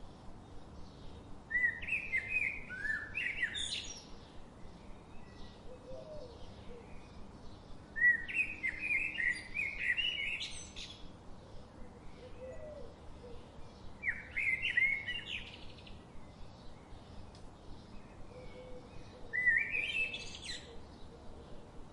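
A songbird singing a short phrase of quick, rising and falling notes, four times about every six seconds, with faint chirping in between.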